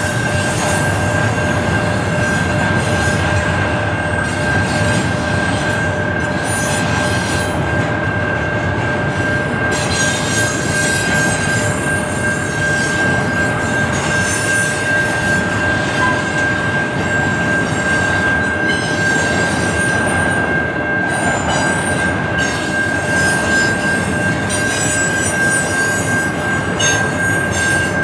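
Train rolling past, cars rumbling steadily under a long, steady, high-pitched wheel squeal.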